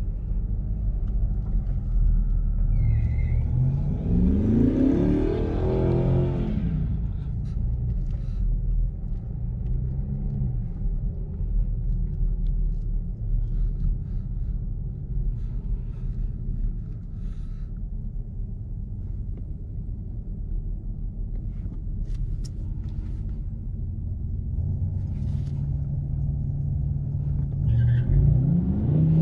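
Chevrolet Camaro engine idling, heard from inside the cabin. About four seconds in the revs climb and drop back once, and near the end they start climbing again.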